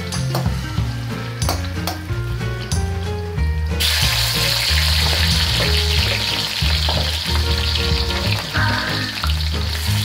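Carrot pieces frying in oil in a wok, stirred with a metal spatula that clicks against the pan. About four seconds in, a much louder, steady sizzle starts suddenly as bell pepper pieces fry in a pool of hot oil.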